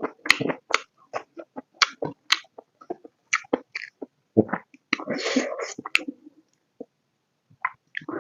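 Close-miked mukbang eating sounds: chewing and wet lip smacking over a mouthful of pork curry with potato, a quick run of short smacks and clicks, then a longer, noisier smack about five seconds in, followed by a near-quiet pause.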